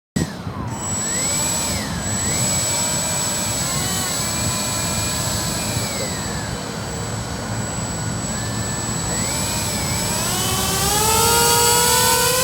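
Electric motors of a Walkera Avatar twin-rotor RC aircraft whining in flight, their pitch swinging up and down as the throttle changes, then rising steadily near the end. Strong wind rumbles on the microphone underneath.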